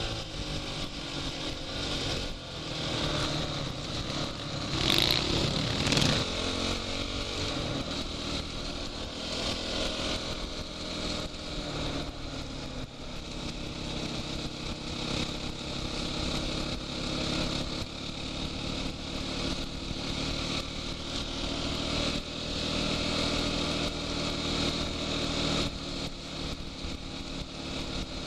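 Off-road motorcycle engine running and changing pitch as the throttle opens and closes, with wind rushing over the goggle-mounted camera. Two sharp knocks stand out about five and six seconds in.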